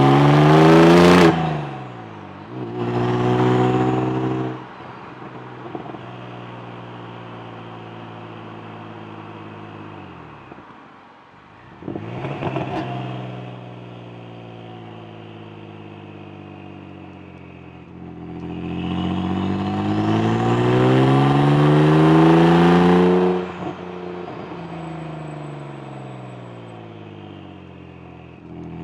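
Exhaust of a Saab Turbo X's turbocharged B284 V6 with a stage 3 G25 turbo, 3.5" downpipe and Hirsch axle-back, revving up and falling back to a steady run several times. There is a short rev near the start, a brief blip a third of the way through, and a long climb of about five seconds toward the end that cuts off suddenly.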